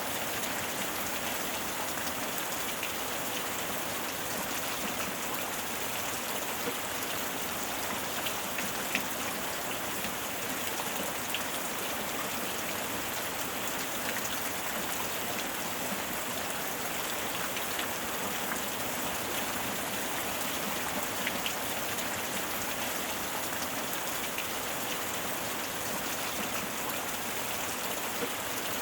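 Steady heavy rain, an even hiss with scattered drop ticks.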